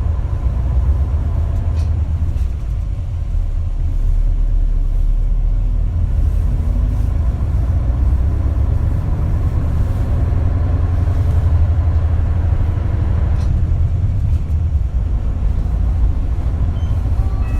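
Inside an Isuzu Erga KL-LV280L1 city bus, the diesel engine and drivetrain running while the bus is under way: a steady low rumble, with a couple of faint ticks from the cabin.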